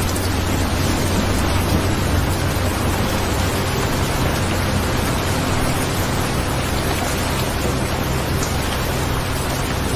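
Steady rain falling, an even hiss with a steady low rumble underneath.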